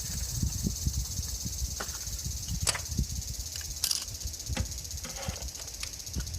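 Steady high-pitched insect chirring with an uneven low rumble underneath, and a handful of sharp light clicks and taps scattered through it.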